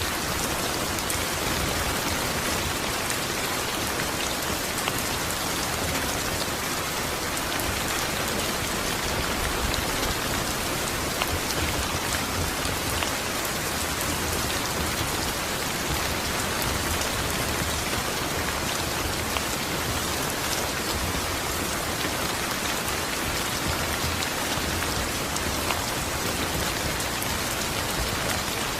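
Steady rain falling, a constant hiss with scattered individual drop ticks on a surface.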